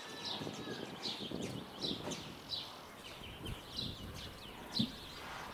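Small birds chirping: short high chirps repeated about every half second to a second. A dull thump about three and a half seconds in and a louder one near the end.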